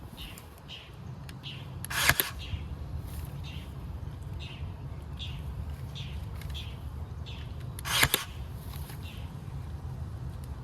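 A cordless staple gun firing twice, two sharp snaps about six seconds apart as staples are driven through screen into a log. Birds chirp repeatedly over a steady low hum.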